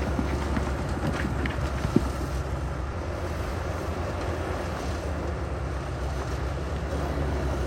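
Heavy diesel construction machinery running with a steady low rumble, with wind noise on the microphone. There is one sharp knock about two seconds in.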